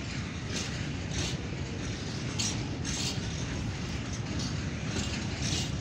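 Freight train of covered hopper wagons rolling past, a steady low rumble of wagon wheels on rails with short bright metallic bursts about every second.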